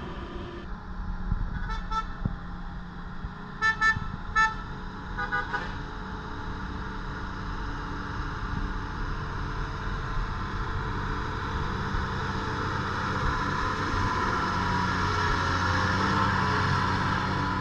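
Heavy lorry engine running under load on a hill climb, with a handful of short horn toots in the first few seconds. The engine sound grows louder in the second half.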